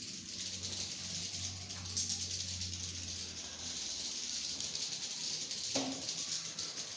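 Swiftlets chattering: a dense, high, rattling twitter, over a steady low hum that fades about four seconds in.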